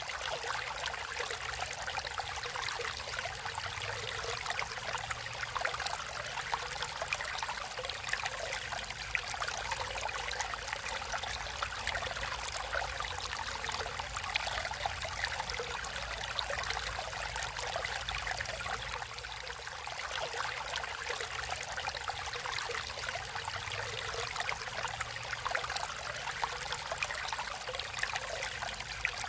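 Natural stream of water flowing and trickling steadily over rocks, with fine splashing and bubbling.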